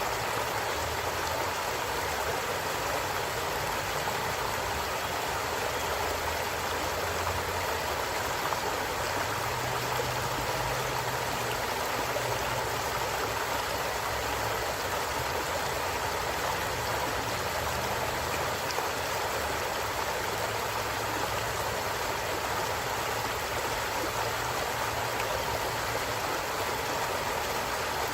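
A flowing stream, with steady rushing water and a low rumble that comes and goes underneath.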